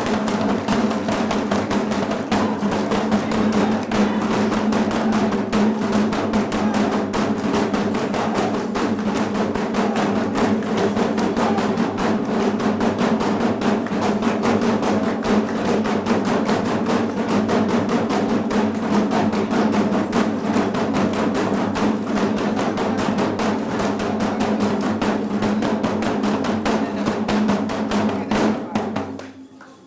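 Drum roll on a snare, very rapid strokes played over a PA for suspense before an award winner is named, cutting off suddenly near the end.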